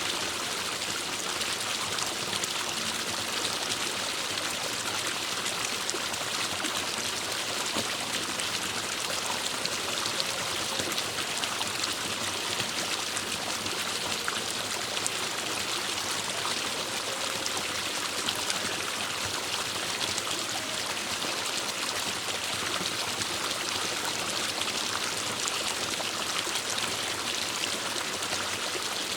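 Forest stream running and trickling over rocks, a steady, even splashing rush.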